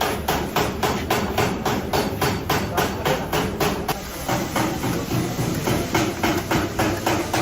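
Rapid, even hammer blows on car-body sheet metal, about four a second: panel beating to reshape a damaged panel.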